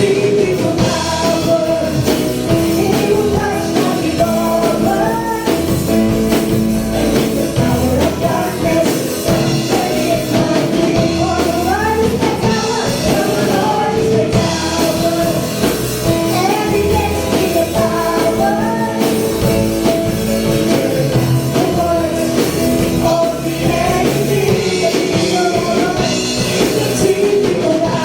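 Gospel praise song: voices singing over band accompaniment, playing steadily throughout.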